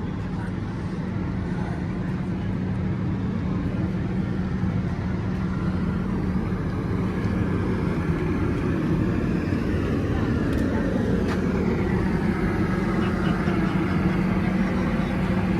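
A large engine running steadily at idle, a droning hum with a constant low note, growing slightly louder over the stretch.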